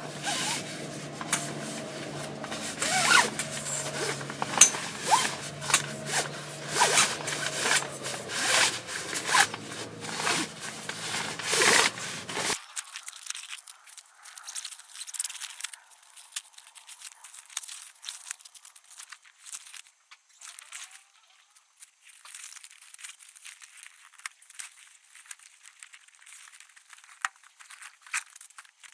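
Gear-handling sounds of pitching a tent: fabric rustling and scraping, zip-like rasps and sharp clicks. They are loudest over a steady low hum that stops abruptly about twelve seconds in, then go on more faintly.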